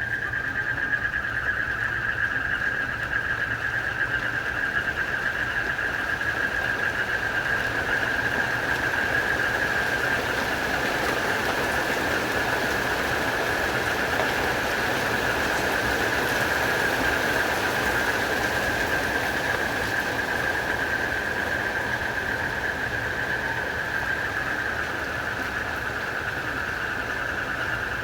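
Rain falling steadily under a continuous high-pitched night chorus of crickets and frogs, unbroken throughout.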